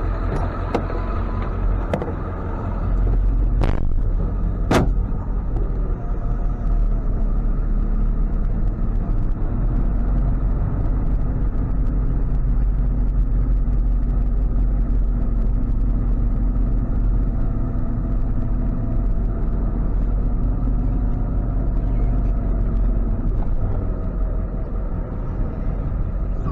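Ford F-550 tow truck running, a steady low rumble of engine and road noise heard from inside the cab. A few sharp clicks come in the first five seconds.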